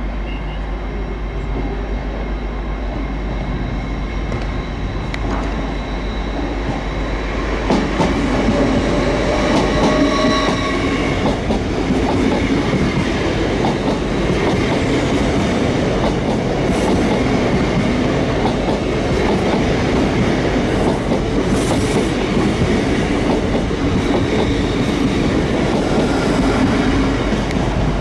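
Hitachi Azuma passenger trains running past on the rails: steady wheel-on-rail noise with clickety-clack over rail joints. It grows louder about a quarter of the way in, and a brief whine rises over it for a few seconds.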